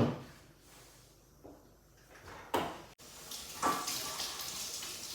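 Two short knocks, like a kitchen door or drawer shutting, then a kitchen tap is turned on and runs from about three seconds in.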